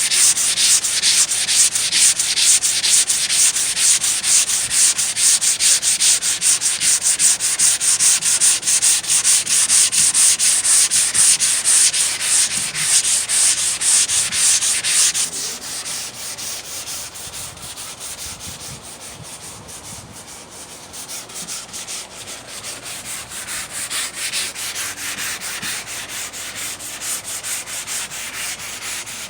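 A hand sanding block with 120-grit sandpaper is blocking down cured polyester putty and body filler on a car door panel. It makes fast, even back-and-forth scratching strokes, loud for the first half, then lighter and softer from about halfway before picking up again near the end.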